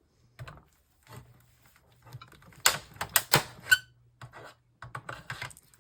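Plastic monitor housing being pried apart with a hand tool: scattered light clicks and scrapes, then a cluster of sharp cracks and snaps from about two and a half to four seconds in, with a brief squeak.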